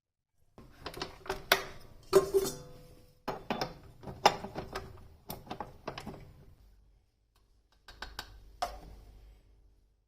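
Kitchen items being handled and set down on a hard surface: a quick run of clinks and knocks, some with a short ring, then after a pause a second, shorter cluster near the end.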